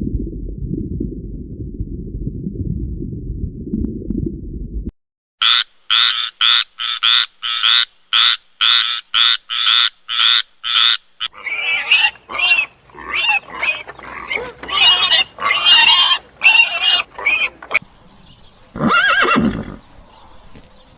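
A string of different animal calls: first a dense, low, rumbling noise, then a quick, regular run of short calls, about three a second, then irregular calls ending in one longer call that falls in pitch near the end.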